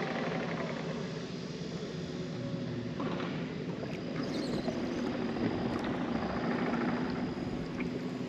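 An engine or motor running steadily with an even hum and a few faint ticks.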